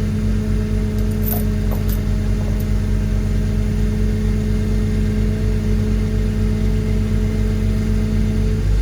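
Heavy machine's engine running steadily under load, with a steady whine over the rumble and a few faint clicks early on; the whine drops away just before the end.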